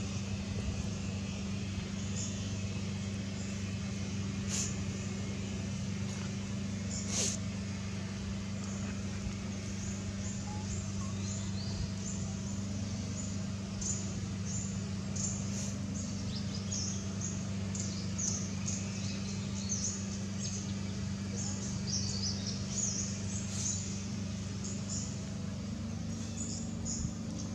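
Outdoor ambience: a steady low hum under many short, high-pitched chirps.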